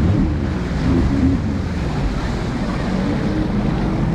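Jet ski engine running on open water, with wind buffeting the microphone and water rushing past the hull.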